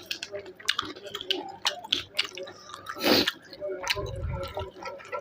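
Close-up wet chewing and lip-smacking of someone eating chicken, with many small clicks. A louder noisy burst comes about three seconds in, and a low bump follows around four seconds.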